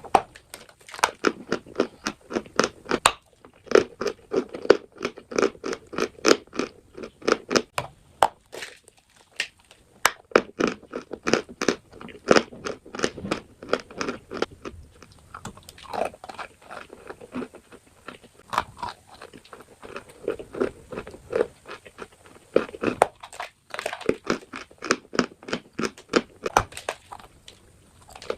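Close-miked chewing of crunchy chalk and clay: rapid, sharp crunches several times a second, with a few brief pauses between bites.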